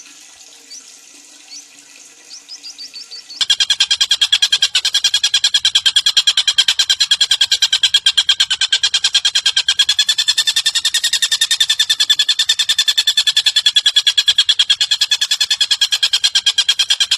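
Bird calls: a few faint rising chirps, then about three seconds in a loud, rapid chatter begins. Its notes repeat evenly, about seven a second, and it runs on steadily.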